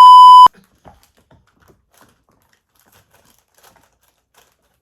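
A loud, steady 1 kHz censor bleep lasting about half a second at the start, cutting in and off abruptly over a spoken word. Afterwards only faint small clicks and rustles.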